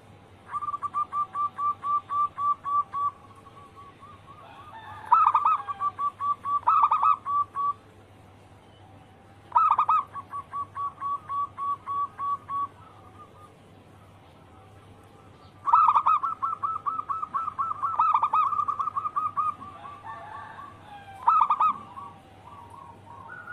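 Zebra doves (perkutut) cooing: phrases of rapid, short coos at about five a second, each phrase opening with a louder note and lasting two to three seconds, with pauses between phrases.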